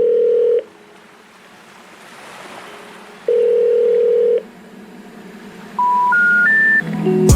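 Telephone ringback tone sounding twice, each ring a steady tone about a second long with a pause of a few seconds between, over a faint hiss. Near the end come three short rising beeps: the special information tone that signals the call cannot be completed.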